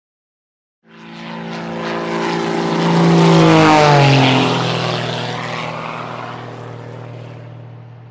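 A propeller-driven aircraft flying past. The engine sound starts about a second in and grows louder to a peak about three seconds in, its pitch dropping as it passes, then fades away.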